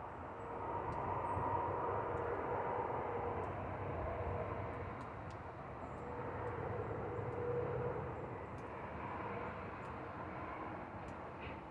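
Distant engine hum with a faint steady tone, swelling and then easing off, with a few faint high ticks.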